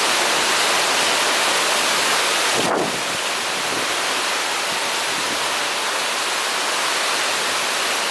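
Typhoon wind and heavy rain making a steady rushing noise, dropping slightly in level a little under three seconds in.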